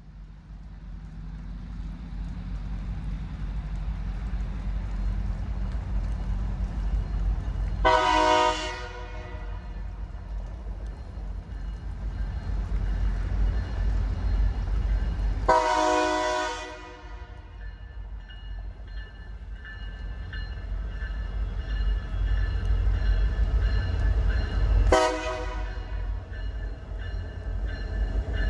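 Train locomotive horn sounding three times over the rising rumble of an approaching train: a short blast about eight seconds in, a longer one about halfway, and a brief toot near the end.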